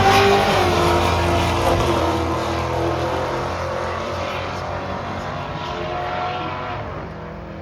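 Two drag-racing cars, one a Holden VZ Commodore, running hard down the strip at full throttle, the engine sound changing pitch as they go and fading steadily as they pull away.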